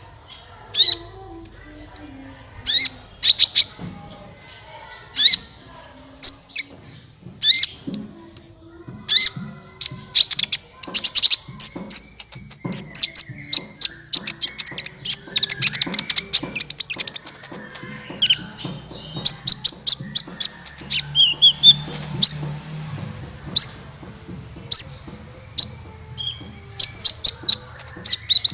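Kolibri ninja sunbird calling: sharp, high chirps, single at first and then in fast runs of many notes, a lure call of the kind used to attract the species.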